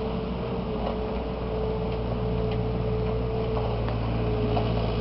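Bobcat 329 compact excavator's diesel engine running steadily, with a steady tone held over the engine sound.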